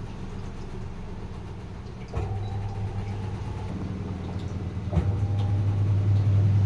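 Sharp washing machine running mid-cycle, with a steady motor hum that grows louder, and two sharp clicks about two and five seconds in.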